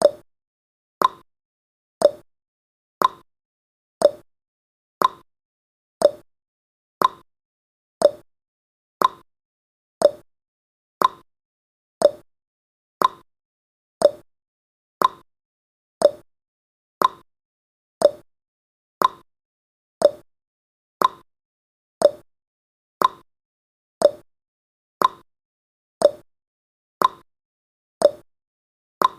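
Clock-tick sound effect of a countdown timer, one short tick each second, marking off the seconds.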